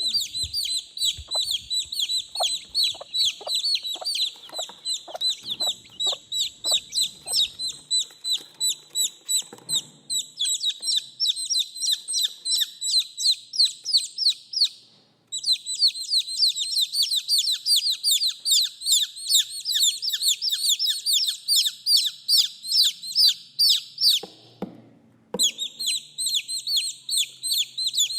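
Baby chicks peeping continuously, many rapid high-pitched cheeps overlapping, with a few lower short sounds in the first several seconds. The peeping breaks off briefly about halfway and again near the end, then resumes.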